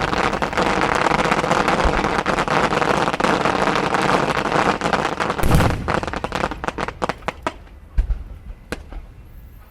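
Fireworks display: a dense run of crackling and bangs, a heavy boom a little past halfway, then the crackle thins to scattered pops and one last deep thud before dying down.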